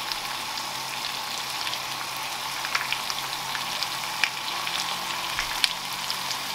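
Chicken pieces browning in masala sauce in a frying pan, making a steady sizzling hiss with scattered small crackles and pops.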